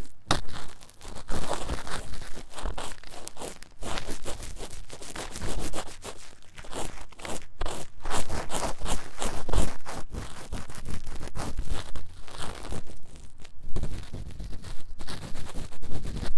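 Ear-cleaning tool scratching fast and vigorously in the silicone ear of a 3Dio binaural microphone: a dense run of rapid scratchy, crackling strokes with short pauses.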